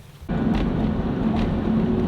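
Steady engine and road noise inside a moving 1998 Mitsubishi Delica L400 van, its V6 gasoline engine humming at a constant pitch. The noise starts abruptly about a third of a second in.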